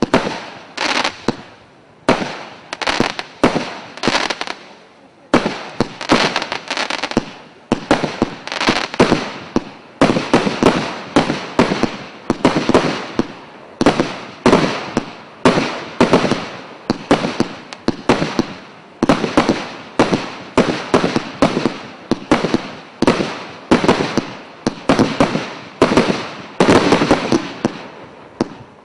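Fireworks cake (multi-shot battery) firing shot after shot, a rapid string of sharp bangs, each trailing off quickly.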